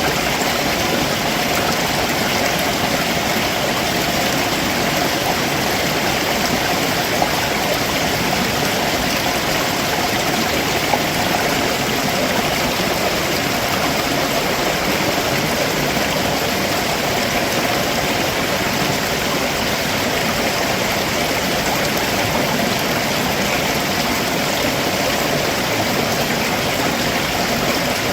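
Stream water running steadily over rocks below a waterfall, a constant rushing with a faint gurgle.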